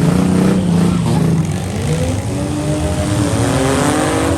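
Engines of several demolition derby vans, trucks and SUVs revving together, their pitches overlapping and wavering, with one engine climbing in pitch about halfway through.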